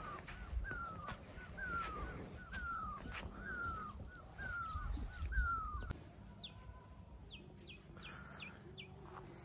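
A bird calling one short falling whistled note over and over, about three notes every two seconds, which stops suddenly about six seconds in. After that a few brief, higher falling chirps.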